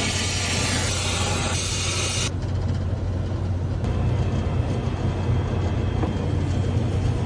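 Steady low hum of running HVAC equipment, with a loud hiss over it for the first two seconds that cuts off suddenly.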